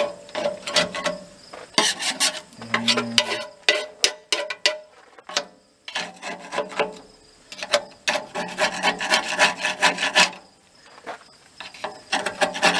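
Screwdriver scraping old gasket residue out of an outdoor wood furnace door's gasket channel, in quick runs of short rasping strokes broken by two brief pauses.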